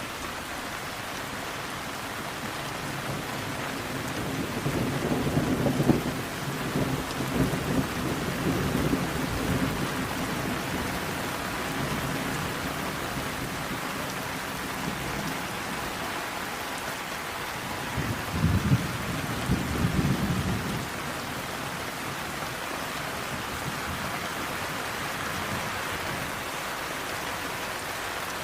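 Steady rain falling, with two low rolls of thunder: a long one a few seconds in and a shorter one about two-thirds of the way through.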